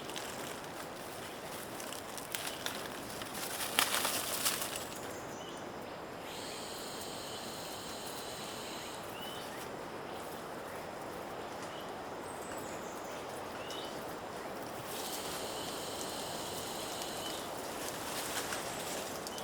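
Rainforest ambience: insects buzzing in a steady high drone that switches on for two long stretches, with a few short rising bird chirps in between, over a constant background hiss. A few rustling, crackling steps on the trail sound near the start.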